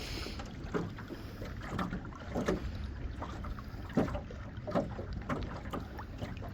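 Irregular knocks and clatter in a small fishing boat, the loudest about four seconds in, over a steady low rumble of wind on the microphone.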